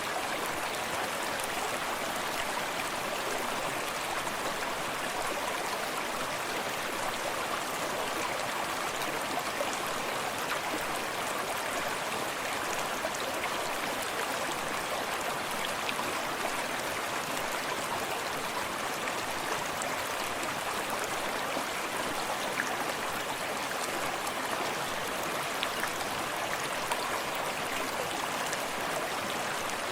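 Forest creek running steadily, a constant rush of flowing water with small splashes and water lapping close by.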